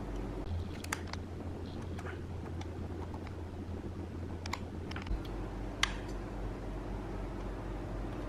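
Steady low electrical hum that jumps an octave higher about half a second in and drops back about five seconds in, with a handful of light, sharp clicks from handling on the bench.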